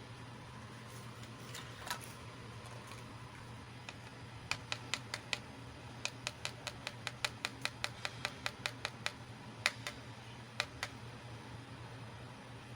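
Small hard plastic toy pieces clicking and tapping as they are handled and set down. The clicks come in a quick run of about three to four a second through the middle, with a few scattered ones before and after, over a steady low hum.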